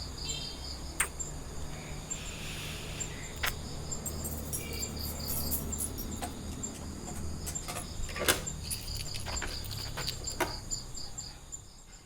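Crickets chirping in a steady run of quick pulses over a low rumble, with a few sharp clicks scattered through; the loudest click is a little past two-thirds of the way in.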